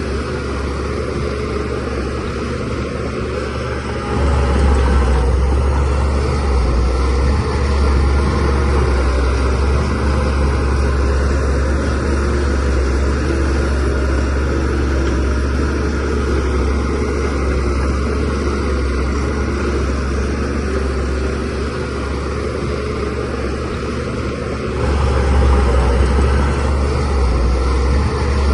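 Diesel engine of a Shantui DH17-C3 crawler bulldozer running steadily under load. It gets louder and deeper about four seconds in and again near the end.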